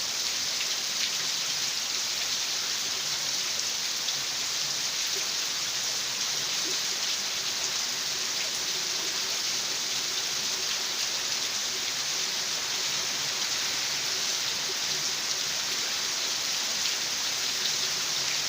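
Steady rain falling, an even hiss with no breaks. A faint low hum comes in through the middle.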